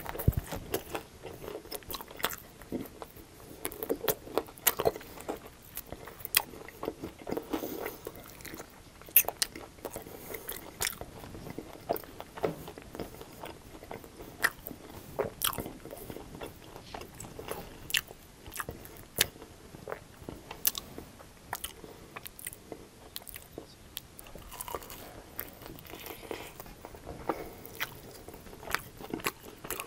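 Close-miked chewing of crunchy breaded chicken wings: irregular sharp crunches of the crispy coating between steady chewing.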